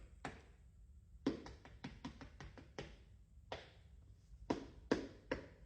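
A foot stomping on the floor: a series of short thumps at uneven intervals, about nine in all.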